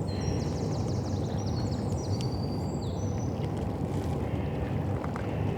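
Songbird twittering and whistling in high, quick notes for the first three seconds, over a steady low rumble from the river and the city behind it.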